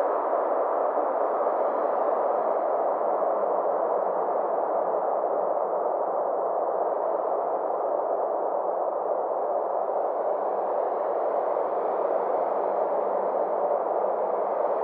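Synthesized space ambience: a steady, noise-like drone centred in the mid range, with a faint upper shimmer that slowly sweeps down and back up.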